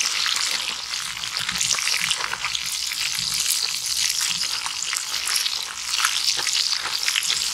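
Catfish pieces frying in hot oil in an aluminium wok, a steady sizzle with dense fine crackling.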